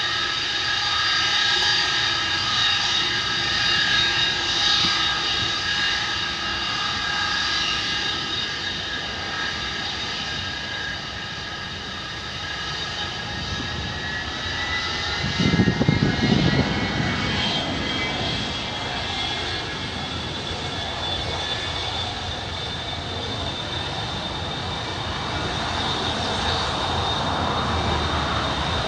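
Avro Vulcan's four Rolls-Royce Olympus jet engines running with a steady high whine, several tones gliding upward in pitch about halfway through, with a brief low rumble at the same time.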